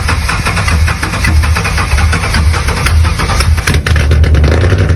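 A car engine running loudly with a pulsing, uneven low throb.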